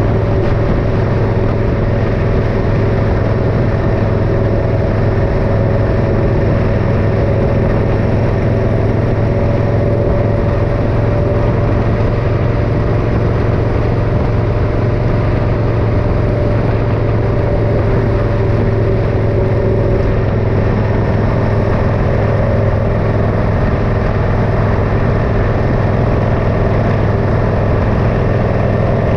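Motorcycle engine running steadily under way, a constant hum over a dense rush of noise, with no change in speed.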